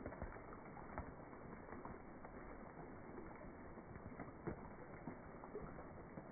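Rain falling on a pond's surface: a steady patter of drops with scattered louder plinks, one standing out about four and a half seconds in.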